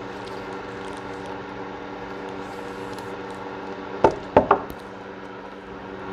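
Three sharp clicks in quick succession about four seconds in, from parts of a .22 pistol being handled as it is taken apart for cleaning, over the steady hum of a running heater.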